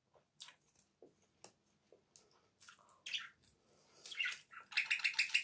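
Close-up chewing of a crisp bread crust: scattered soft mouth clicks, then a run of quick crunches from about four seconds in.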